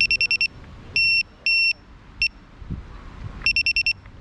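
Electronic beeper sounding a high, repeating alarm pattern: five quick beeps, two longer beeps and a short one, then the pattern starting over about three and a half seconds later.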